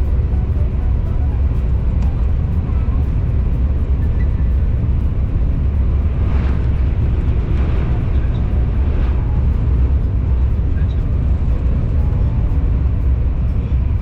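Steady low rumble of a KTX high-speed train running at speed, heard from inside the passenger carriage, with faint music and voices over it.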